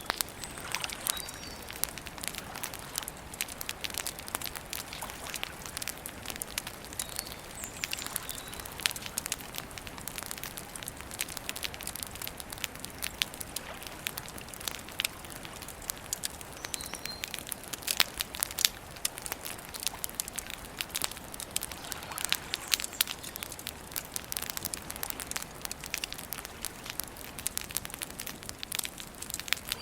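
Campfire crackling and popping steadily, with many sharp snaps throughout. A few brief, faint bird chirps come through now and then.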